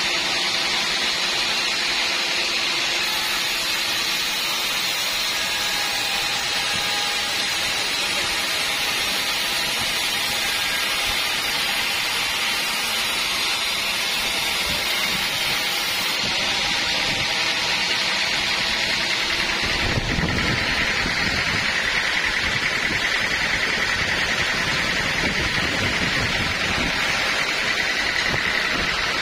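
Sawmill band saw machinery running with a steady, loud noise. About twenty seconds in, a deeper rumble and a steady higher whine join in.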